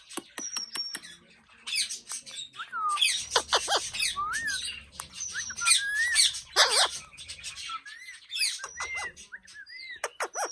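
Pet green parrot chattering between its words: sharp clicks, short high whistles and squawks, with several chirps that rise and fall in pitch.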